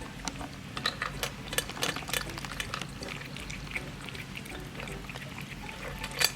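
Cat eating wet cat food: quick wet smacking and chewing clicks, busiest in the first three seconds, with one sharper click near the end.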